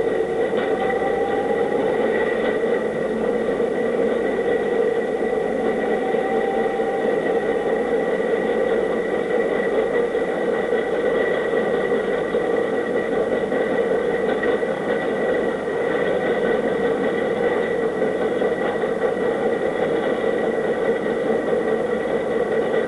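Steady mechanical running noise with a constant high whine, unchanging throughout.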